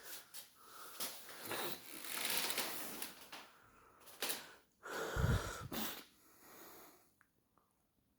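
Amica washing machine mid-wash: water and laundry sloshing as the drum turns, with several knocks and a heavy low thump about five seconds in. The drum pauses near the end.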